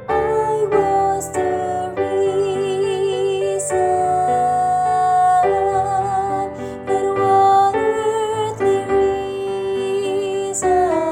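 A woman's voice singing a slow sacred song with vibrato on held notes, over piano accompaniment.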